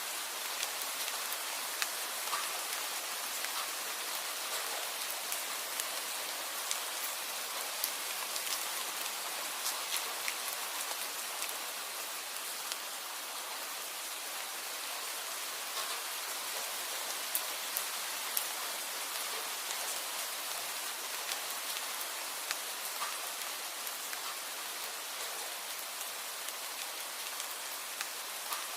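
Steady rain falling on a surface: a continuous even hiss with many scattered, sharp individual drop ticks.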